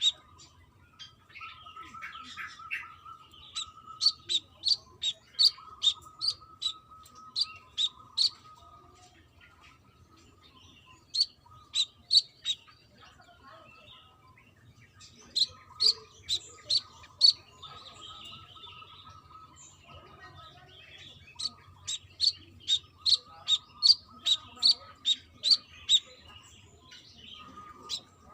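Brown-throated sunbird (kolibri kelapa) calling: runs of sharp, high chirps, about three a second, broken by pauses of a few seconds.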